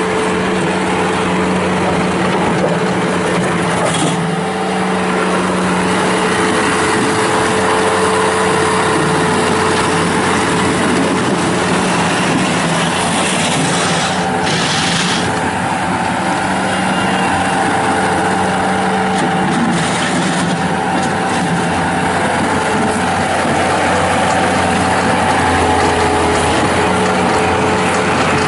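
Bobcat T190 skid steer's turbocharged Kubota V2607 diesel running steadily at an even engine speed, with a brief hiss about fourteen seconds in.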